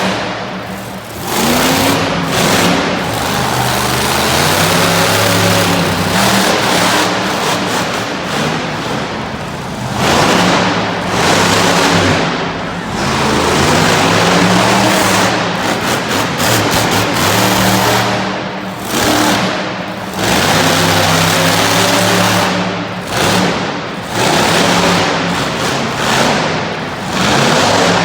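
Bone Shaker monster truck's engine revving hard in repeated surges, its pitch climbing and falling again and again, with short drops in loudness between them. Music plays underneath.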